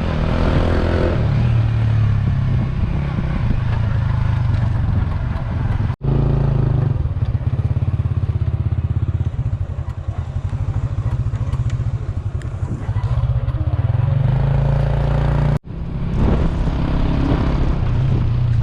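Motorcycle engine running steadily while riding along, a low, fast-pulsing rumble. The sound cuts out abruptly twice.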